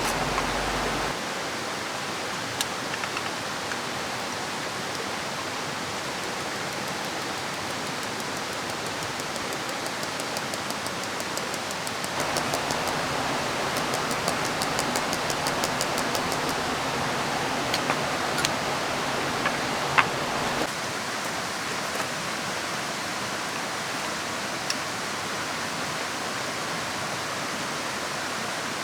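Steady rushing of river water and rain. A few sharp clicks sound now and then. The level steps up about twelve seconds in and drops back about twenty-one seconds in.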